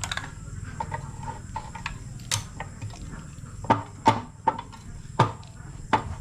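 Irregular sharp knocks and clicks of metal tools and parts being handled while a diesel engine is stripped down. They come a few a second and grow more frequent in the second half.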